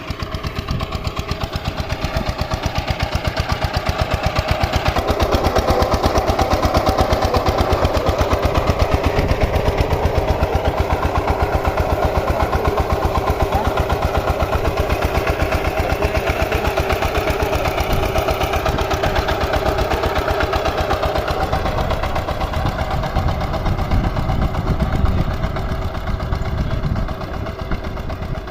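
VST Shakti 130 DI's single-cylinder diesel engine running steadily, with a rapid, even beat of firing strokes. It gets a little louder about five seconds in.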